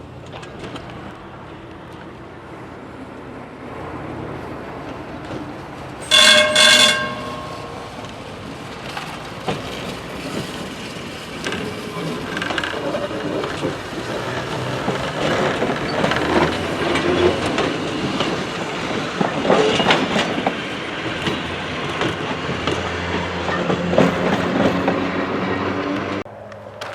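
A train sounds its horn once, about a second long, about six seconds in, then runs past with rolling rumble and wheel clatter that grows louder. The sound cuts off abruptly near the end.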